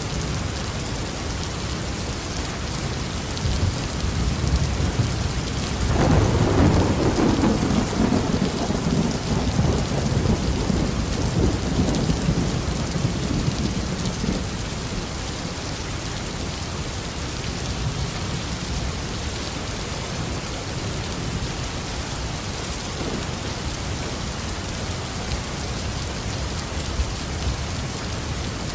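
Steady heavy rain on a roof, with a roll of thunder that builds about four seconds in, cracks loudest about six seconds in and rumbles away over the following several seconds.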